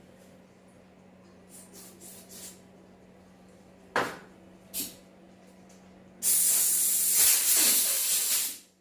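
Compressed-air blow gun blowing through a small carburetor jet to clear its passages: a couple of short bursts about four seconds in, then a loud, steady hiss lasting about two and a half seconds that cuts off near the end.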